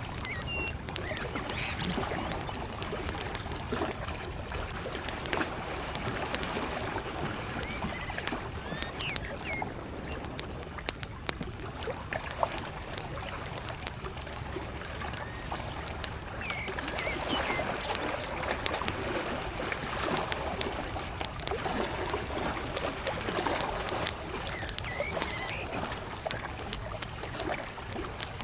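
Campfire crackling, with many sharp pops, over small lake waves lapping at the shore; faint bird chirps come now and then.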